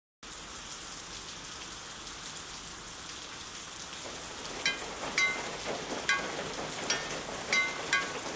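Steady rain falling, a hiss of rain on hard ground. From about halfway, about six water drops plink with a short, ringing pitch.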